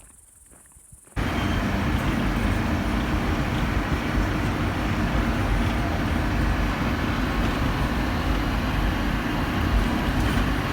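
Faint crickets for about a second, then a sudden cut to the loud, steady rumble of a moving road vehicle: engine and tyre noise.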